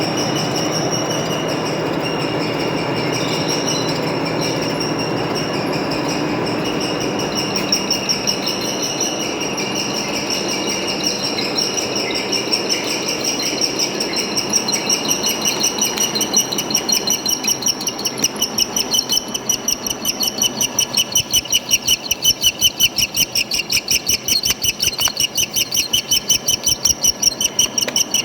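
Metal-turning lathe running, with a high-pitched ringing tone over the machine noise; from about halfway the sound starts to pulse rhythmically, about three beats a second.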